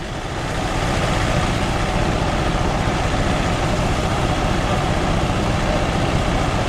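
Engine-driven rice threshing machine running, growing louder over about the first second and then holding steady.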